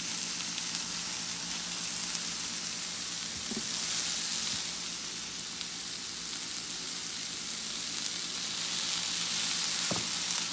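Shiitake and enoki mushrooms sizzling in rendered beef fat in a stainless-steel skillet: a steady crackling fry, with a low steady hum underneath.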